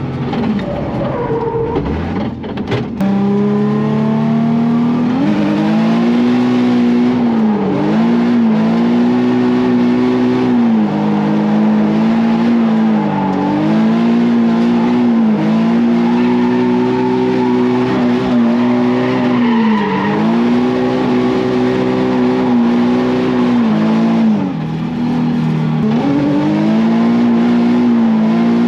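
Nissan 350Z's V6 engine revving during a drift run. The revs climb over the first few seconds, then hold high, dropping briefly every few seconds between sections.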